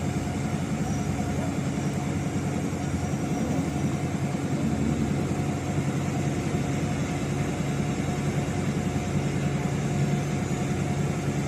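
Ferrari 812 Superfast's naturally aspirated V12 idling steadily at an even pitch.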